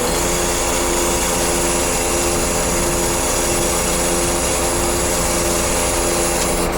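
Scania truck's engine running steadily, with a constant whine and hiss over it.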